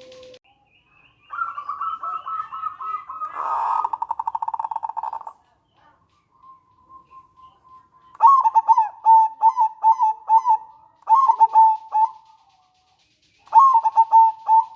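Zebra dove (perkutut) calling. It gives a rapid rattling trill for about four seconds, then after a pause a quick run of short cooing notes, with one more short run near the end.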